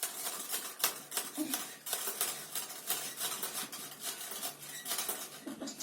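Parrot rattling its metal cage, a fast, irregular run of metallic clicks and clatters.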